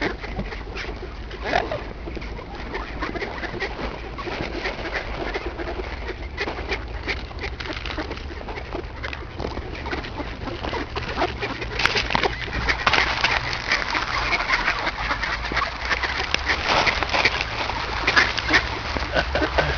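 A crowd of ducks quacking and chattering at a winter feeding spot, the calls growing busier and louder about twelve seconds in.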